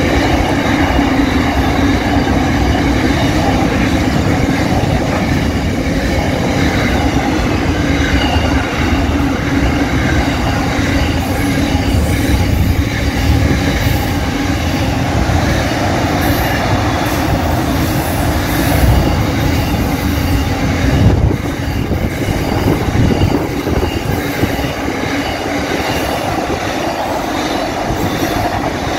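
Intermodal container wagons of a freight train rolling past: a steady rumble and clatter of steel wheels on the rails, with a steady ringing tone from the wheels over it. A single sharper knock stands out about two-thirds of the way through.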